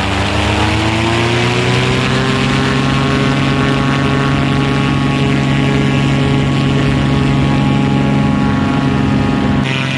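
Paramotor engine and propeller running under power; the pitch climbs over the first two seconds as it revs up, then holds steady. The sound changes abruptly near the end.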